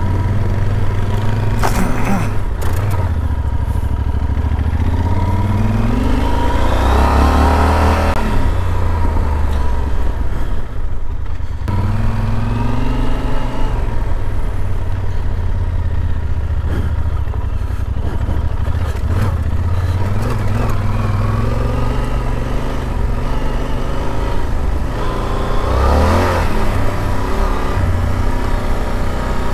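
Yamaha Super Ténéré's parallel-twin engine running under way, the note rising as it accelerates about seven seconds in and again near the end, with a short break in the drone a little before the middle.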